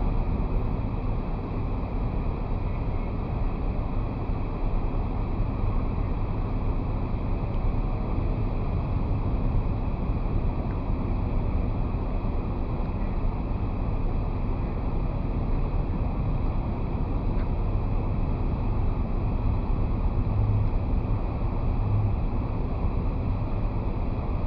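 Steady wind rush buffeting a roof-mounted camera's microphone, with low road rumble from a car driving.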